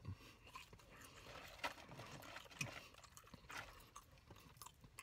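Faint chewing and mouth sounds of a man eating, with a few soft clicks spread through it.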